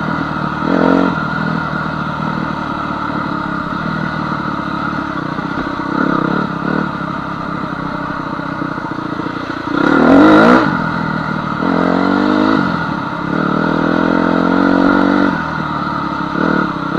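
Honda CR250 dirt bike's single-cylinder two-stroke engine running as it is ridden along a trail, revving up sharply about ten seconds in and again shortly after.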